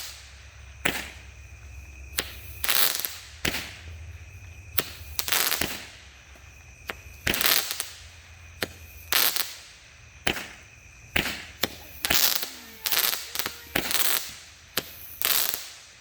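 A 200-gram Thunderstorm consumer fireworks cake firing shot after shot: a string of sharp bangs, about one or two a second, some coming in quick clusters.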